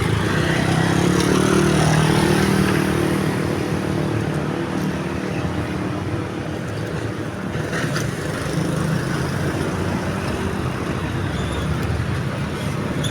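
Road traffic at a level crossing: motor vehicle engines passing, loudest a couple of seconds in and then fading to a steady background hum.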